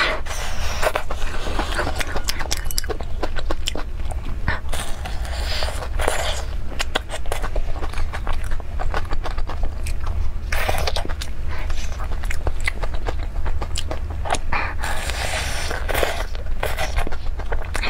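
Close-up crunchy biting and chewing of breaded, deep-fried corn dogs, the crisp batter crust crackling with each bite, over a steady low hum.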